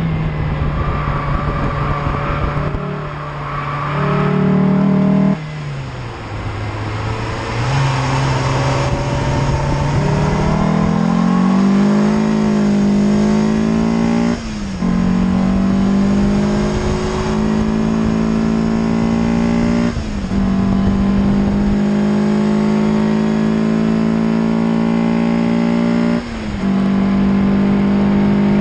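Peugeot 306 GTi-6's 2.0-litre four-cylinder engine under hard acceleration on track: a lift-off and downshift blip about five seconds in, then the revs climb with quick upshifts, each a brief dip in sound and pitch, about fourteen, twenty and twenty-six seconds in.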